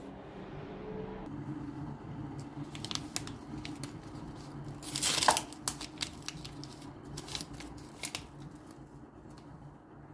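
Paper or plastic being crinkled and torn, with scattered clicks and a louder tearing burst about five seconds in, over a faint low steady hum.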